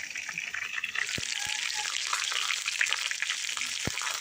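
Food frying in hot oil in a pan, a steady sizzle with fine crackles that grows louder about a second in. There are a few soft low knocks among it.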